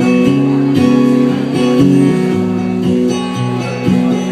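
Solo acoustic guitar playing between verses of a live song, strummed and picked chords changing every half second or so.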